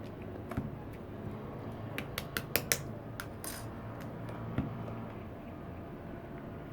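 Small hard objects being handled: a single click, then a quick run of five or six sharp clicks, a brief rustle, and a dull thump later.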